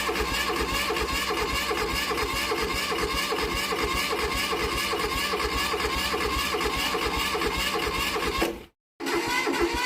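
Restored tractor's engine running steadily with an even, rapid firing beat; the sound drops out briefly near the end.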